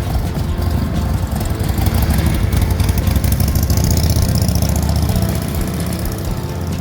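Motorcycle engine running while riding, with rushing wind noise. It grows louder about two seconds in and eases off again near the end.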